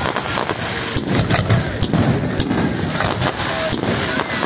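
Aerial fireworks display: a dense run of bangs and crackling pops, several a second, from shells bursting into crackle stars and comets.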